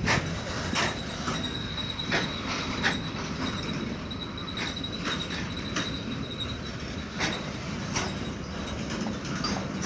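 A vehicle on the move: a steady rumble with irregular knocks and clanks, and a thin high squeal running for several seconds near the start.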